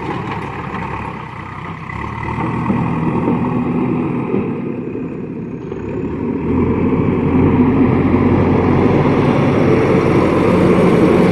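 Diesel engine of a JCB earthmoving machine running, growing louder and fuller about six and a half seconds in.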